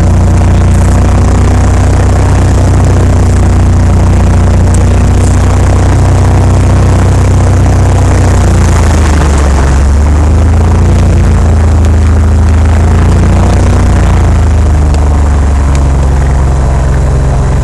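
Cessna 182P's six-cylinder piston engine and propeller running loudly and steadily. The engine note dips and wavers about halfway through, then recovers, and shifts slightly again near the end.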